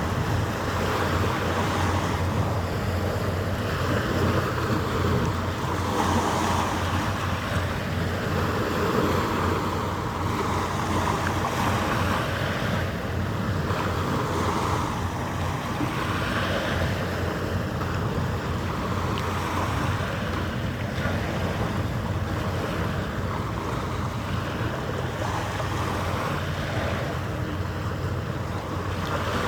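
Steady low mechanical hum under a rushing noise of wind and water that swells and fades every few seconds.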